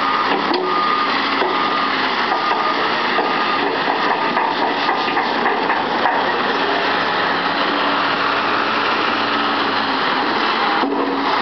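Heavy truck engines running steadily, with a few short knocks about halfway through.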